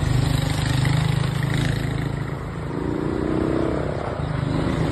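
Motor vehicle engine running, with a higher engine note coming in for about a second around three seconds in.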